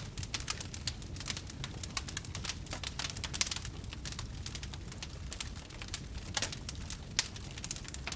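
Wood campfire burning: irregular crackles and pops over a steady low rumble of the flames.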